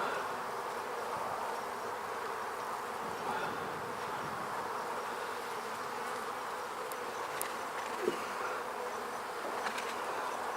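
Many honey bees buzzing in a steady hum around an opened hive. They are stirred up by the inspection, enough that more smoke is wanted to calm them. A couple of faint ticks come near the end.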